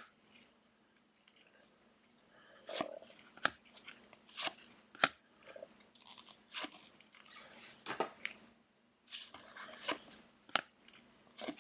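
Trading cards being handled and flipped through by hand: soft rustling of card stock with a string of irregular sharp clicks and snaps.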